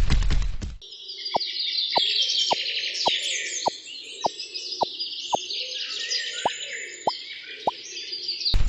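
Many birds chirping and twittering together, with a short falling plink about every 0.6 s through most of it. It opens with the tail of a loud noisy sound that cuts off about a second in.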